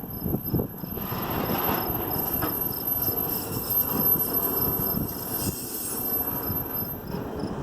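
Intermodal freight train cars rolling past: a steady rumble and clatter of steel wheels on rail.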